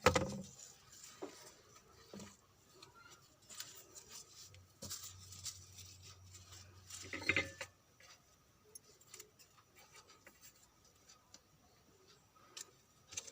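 Faint, scattered clicks, taps and rubbing of small objects being handled and set down, with a louder clatter about seven seconds in.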